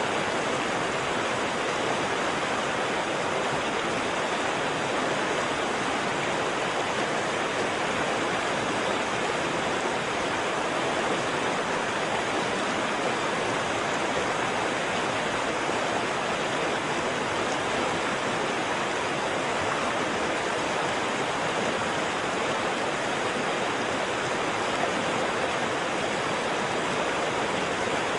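Waterfall: water falling and rushing in a steady, unbroken roar without any change.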